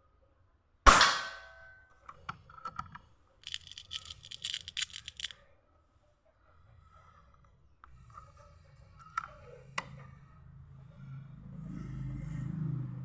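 A PCP air rifle fires one sharp shot about a second in, leaving a brief ringing tail. It is followed by a few seconds of quick clicking and rattling, then two separate sharp clicks, consistent with handling and cycling the rifle's action.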